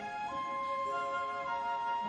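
Slow orchestral film score with a high woodwind, likely a flute, playing long held notes over sustained chords; the melody note steps down a little past halfway.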